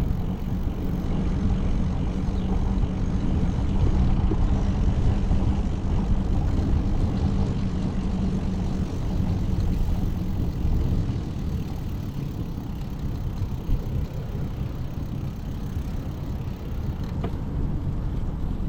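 Steady low rumble of wind and road noise while riding a bicycle, with a steady motor-vehicle engine hum through the first half that fades out about halfway through.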